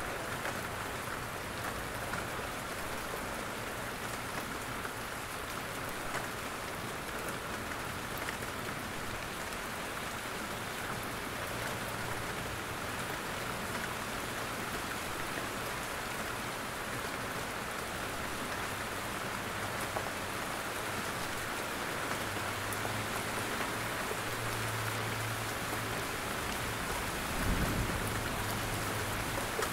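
Steady rain falling in a forest, with drops pattering off the trees. A low rumble joins in the second half, with a dull thump near the end.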